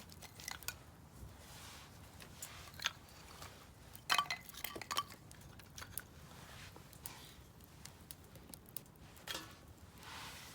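Split firewood crackling and popping as it burns in a Solo Stove Campfire stainless-steel fire pit, with irregular sharp snaps. A quick cluster of louder pops comes about four to five seconds in.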